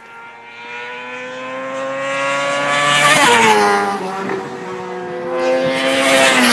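600cc inline-four sportbike engine at high revs passing close by. It grows louder and passes with a sharp drop in pitch about three seconds in. A second bike comes up and passes the same way near the end.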